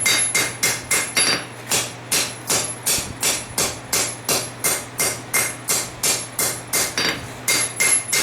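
Hand hammer striking hot steel on an anvil in a steady rhythm of about three blows a second, each blow followed by a short bright ring, as the nose of a knife forged from a farrier rasp is rolled up.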